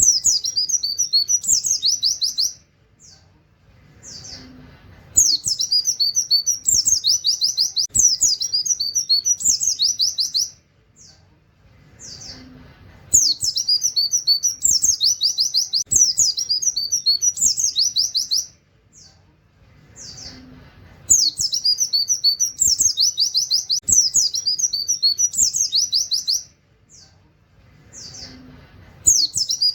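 White-eye (pleci) singing a 'tembakan' song: runs of rapid, high 'wit wit' chirping notes with canary-like phrases, each run lasting about five seconds. The same phrase repeats about every eight seconds, with a few short single notes in the pauses.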